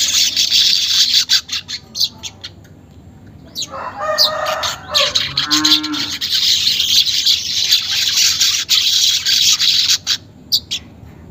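Manyar weaver bird chattering in fast, dry, rattling bursts (the 'ngeriwik' song). The chatter breaks off for a few seconds and then starts again. In the break a lower, drawn-out call from another animal sounds, sliding down in pitch.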